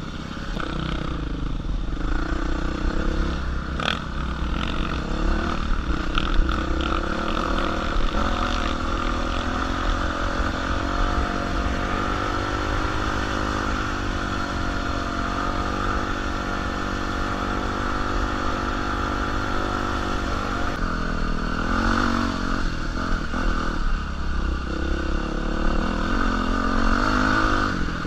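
Dirt bike engine running on a rough trail, its pitch rising and falling as the throttle opens and closes, steadier through the middle stretch. Sharp clicks and clatter of the bike over rough ground come through, including a couple of knocks about four and six seconds in.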